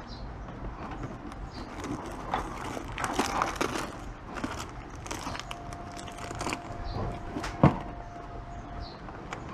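Handling noise from unboxing a motorcycle helmet: rustling, crinkling and small clicks, busiest a couple of seconds in, with one sharp knock about three-quarters of the way through. A faint steady tone runs through the second half.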